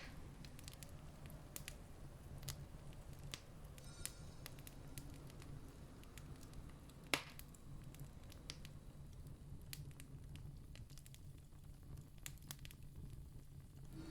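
Wood campfire crackling, with scattered sharp pops and one louder pop about seven seconds in, over a low steady rumble.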